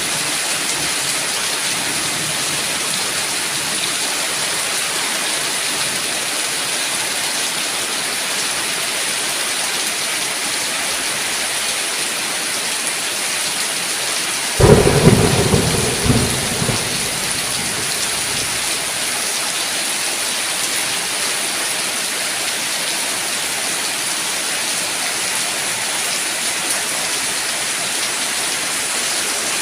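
Steady heavy rain hiss, with a sudden sharp thunderclap about halfway through that rumbles away over a couple of seconds.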